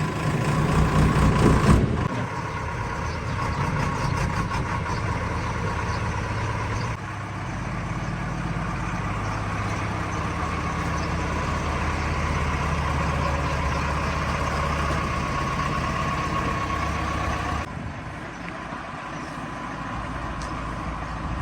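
Diesel engine of a JCB 3DX backhoe loader running while it works. The engine is loudest over the first two seconds, its note and level step down about two seconds in and shift again about seven seconds in, and it drops lower near the end.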